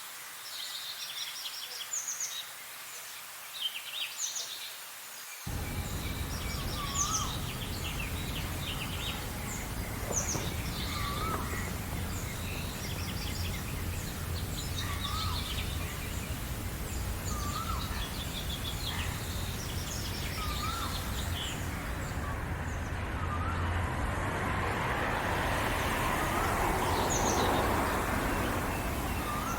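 Several birds chirping and singing at once, with one bird repeating a short, low whistled phrase every two to three seconds. A steady low rumble cuts in abruptly about five seconds in, and a rush of noise swells and fades near the end.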